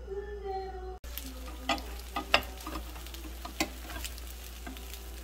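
Yam-powder-coated sweet potato slices sizzling in oil in a frying pan, with a metal spatula clacking and scraping against the pan several times while turning them.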